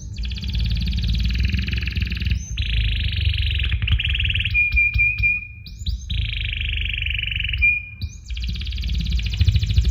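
Animal calls: a run of buzzy, rapidly pulsed trills, each about two seconds long with short breaks between, and a few brief steady whistles in the middle, over a low steady rumble.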